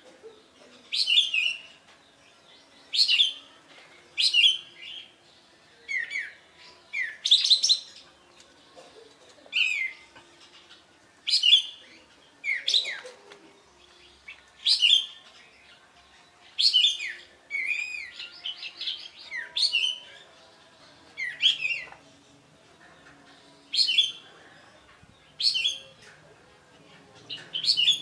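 A kapas tembak singing a loud song: short bursts of quick, high, clear notes, each with a falling whistle, repeated about every one and a half to two seconds.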